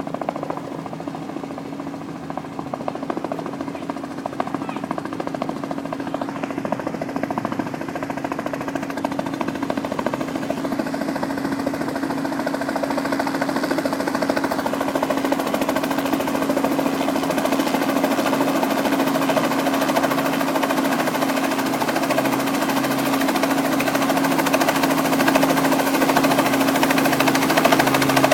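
Helicopter's rotor and engine running with a steady hum, growing gradually louder as it comes in to land.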